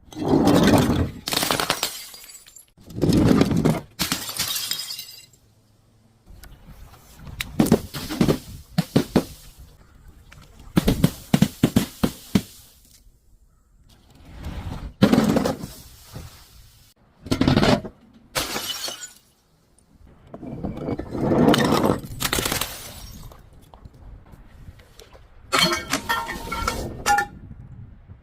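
Glass bottles and other brittle objects being crushed and shattered one after another, about a dozen separate breaks with short pauses between them. Some breaks are quick runs of crackling crunches, and one near the end has glass pieces ringing and tinkling.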